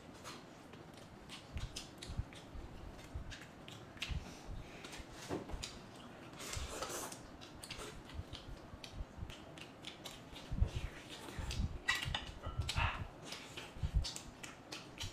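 Scattered small clicks and light knocks, with a brief rustle about halfway and a few low thumps in the second half.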